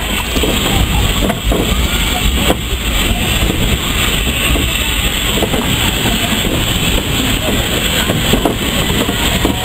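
Heritage train running on the rails: a steady, loud rumble and noise with no distinct beats.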